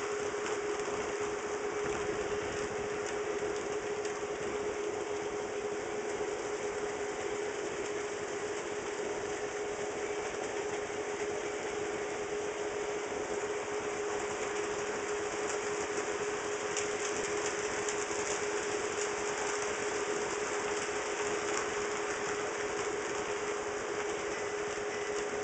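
HO scale model trains running on the layout's track, powered by DC: a steady motor hum with one constant tone, overlaid with light wheel clicks on the rails.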